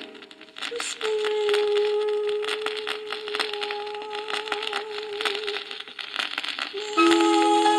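Quiet instrumental passage of held notes on a vinyl record, with a steady scatter of crackles and clicks from the record surface; a fuller, louder chord comes in near the end.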